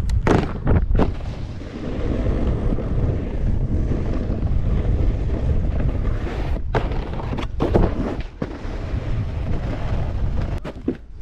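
Wind rushing over a GoPro action camera's microphone while snowboarding downhill, with the board sliding and scraping over the snow. There are several sharp knocks: two about half a second apart near the start, a few more in the second half, and another near the end.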